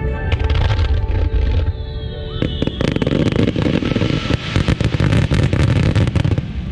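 Starmine fireworks barrage: a dense, rapid run of bangs and crackles that builds about two and a half seconds in and eases off near the end, over steady music.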